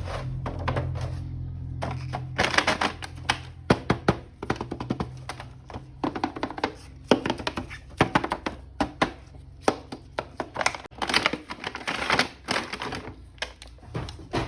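Plastic action-figure packaging and parts being handled in an unboxing: a dense, irregular run of clicks, taps and crinkling. Background music with steady low notes plays underneath.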